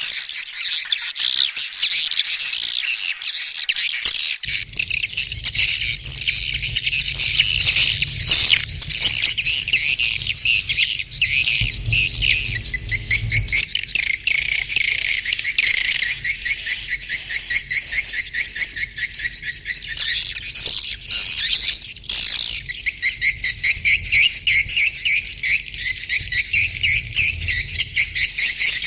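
Many edible-nest swiftlets chittering: a dense, continuous mass of rapid, overlapping high chirps. This is the swiftlet mating and nesting call ('birahi beranak') used as a lure sound.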